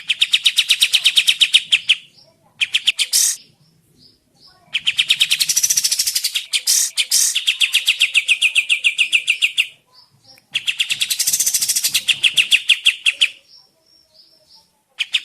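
Kapas tembak songbird singing in long bouts of a fast, rattling trill of evenly repeated notes, broken by brief pauses with a few faint chirps between them.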